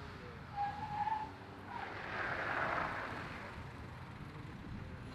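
A car driving past on a hill climb course, its noise swelling and fading over about a second, over a steady background rumble. A short high tone sounds about a second in.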